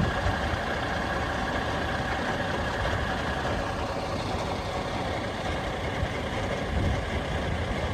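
Helicopter running on the ground: a steady engine whine of several tones over continuous low engine noise.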